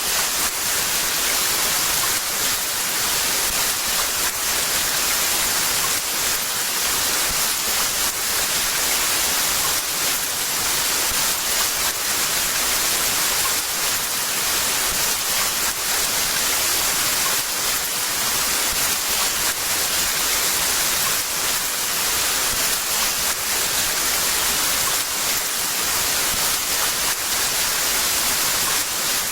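Heavy rain pouring steadily: a dense, even hiss of countless drops.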